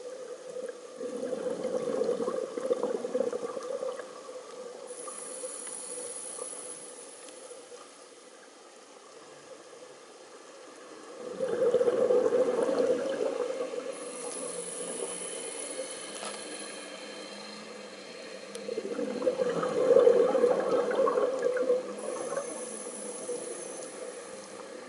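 Scuba diver breathing through a regulator underwater: three bubbling exhalations about eight seconds apart, each followed by a quieter hiss of the next inhalation.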